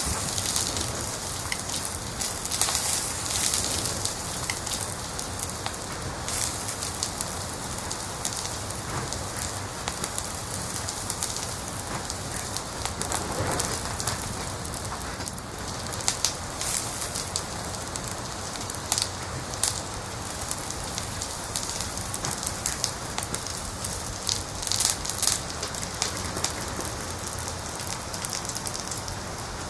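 Wood fire crackling in a fireplace: a steady hiss with frequent sharp pops and snaps, a few bunched together about halfway and again near the end.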